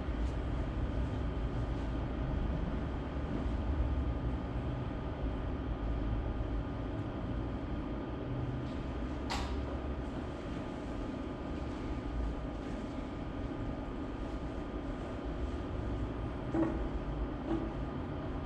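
Steady low rumble of room or hall noise with no speech, broken by a single sharp click about nine seconds in and a faint knock near the end.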